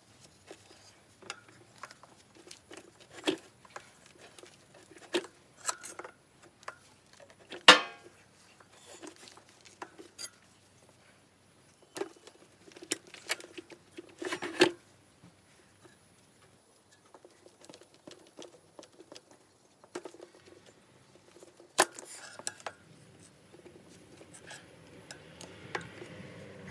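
Irregular clicks, clinks and knocks of hand tools and metal parts being handled during motorcycle work, with sharper knocks about eight, fourteen and twenty-two seconds in, and a soft rustling scrape near the end.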